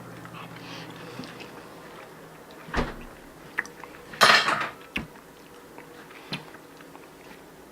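Kitchen pots, dishes and utensils being handled: a few sharp clinks and knocks, with the loudest clatter a little over four seconds in.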